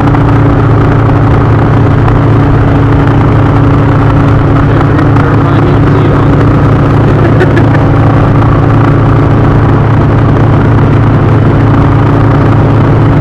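Indian motorcycle V-twin engine running at a steady cruise, a constant loud drone with no change in pitch.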